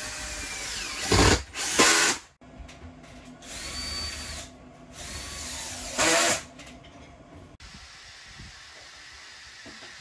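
Power drill run in short stop-start bursts, its motor whine rising and holding each time, with three louder bursts about a second in, near two seconds and about six seconds in. It cuts off suddenly about seven and a half seconds in.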